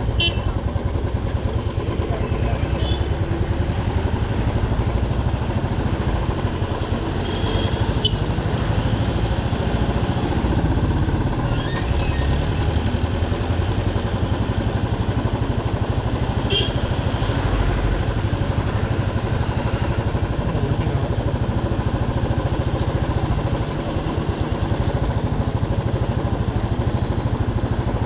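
Motorcycle engine running steadily as the bike is ridden, with a few short high chirps here and there.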